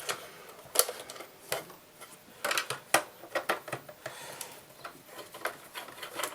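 Irregular small clicks and clatters of a screwdriver, screws and hands on a Sega Dreamcast's plastic case as the console is taken apart.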